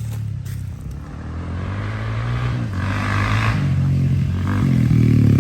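Dirt bike engine revving hard and shifting through the gears, its pitch climbing and dropping in steps and growing steadily louder as the bike approaches.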